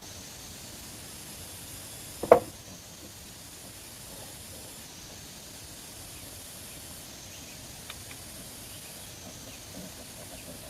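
Steady outdoor hiss with a faint high buzz that comes and goes, and one sharp loud knock about two seconds in.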